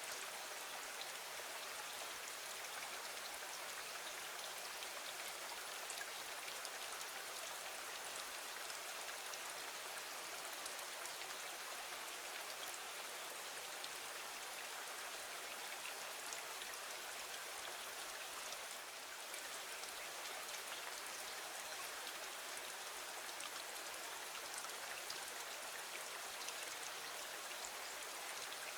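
Steady rain falling against a window: an even hiss of dense patter with scattered sharper drop ticks.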